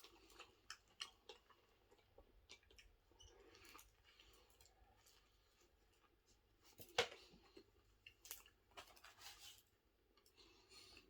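Faint chewing of a Subway sandwich, with scattered small clicks and crinkles of handling, and one sharper knock about seven seconds in.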